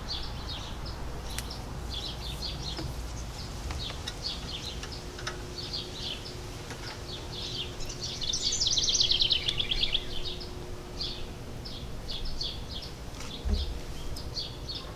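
Songbirds chirping in short, repeated high phrases, with one louder rapid trill that falls in pitch about eight seconds in. A soft low thump comes near the end.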